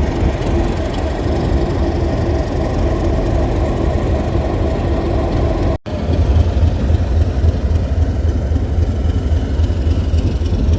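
Class 37 diesel locomotive engine running steadily at idle. The sound cuts out abruptly for an instant a little past halfway, then carries on with a heavier low end.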